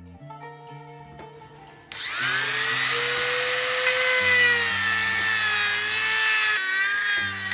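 A high-pitched power tool whine over background music. It starts about two seconds in with a quick rise in pitch, holds with the pitch wavering, and drops in level near the end.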